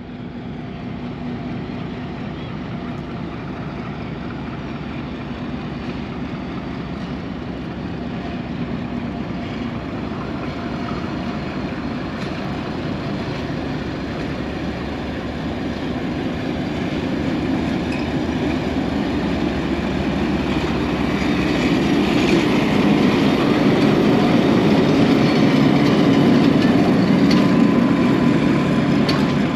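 Passenger train pulling out of the station behind a Pakistan Railways HPU-20 diesel-electric locomotive: a continuous rumble of the engine and of wheels on the rails, growing steadily louder through the first two-thirds as the train gathers speed, then staying loud.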